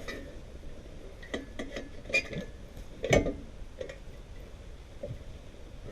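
Metal clinks and knocks: a quick series of light clinks, then a louder knock about three seconds in, as an exhaust pipe and tools are worked into place on the catalytic converter.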